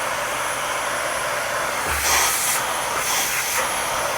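Steady rushing air from a small motor-driven cleaning tool, such as a blower or vacuum, switched on just before and running evenly, with a faint high whine over it, while dust is cleaned out of the light.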